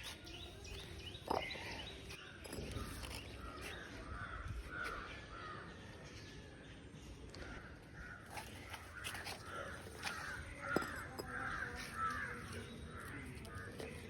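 Birds calling outdoors, likely crows: runs of short repeated calls, several a second, mostly in the second half, with a couple of sharp clicks.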